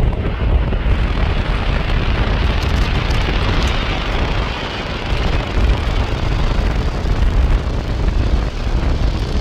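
Jet aircraft engine roar swelling in and passing, strongest a few seconds in and easing near the end, with heavy wind buffeting on the microphone.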